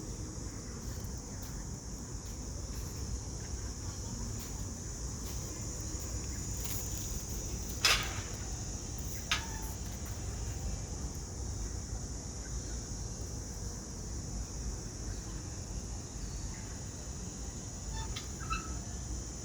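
Insects chirring steadily in one high, even band over a low background rumble, with a sharp loud click about eight seconds in and a smaller one a second later.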